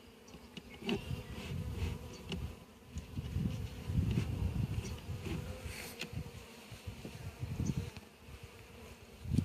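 Honey bees buzzing around an open hive, the hum swelling and fading irregularly as individual bees pass close.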